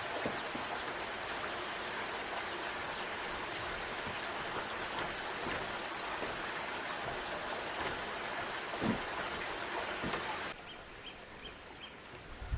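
Steady rush of water that cuts off abruptly about ten and a half seconds in.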